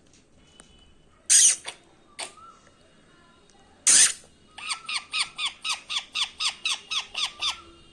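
A pet green parrot gives two loud, harsh screeches with a few shorter squawks between them, then a fast run of about a dozen short, falling calls, roughly four a second.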